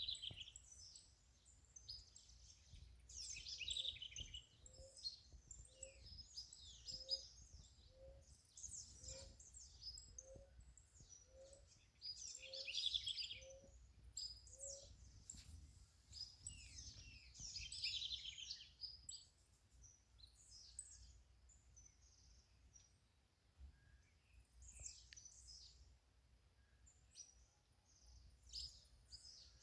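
Small birds chirping and singing in repeated short bursts of high notes. In the middle comes a run of about a dozen short, lower notes, evenly spaced about two-thirds of a second apart, over a faint low background rumble.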